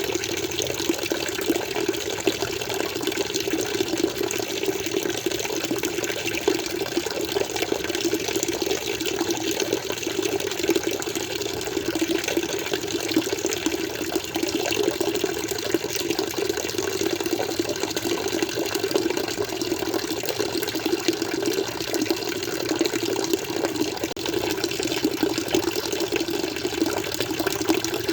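Water flowing and splashing steadily, an unbroken pouring sound with a low gurgling body and fine crackle above it.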